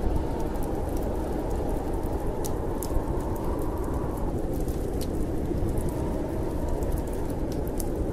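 Steady low wind of a snowstorm, with sparse sharp crackles from a wood fire in a fireplace.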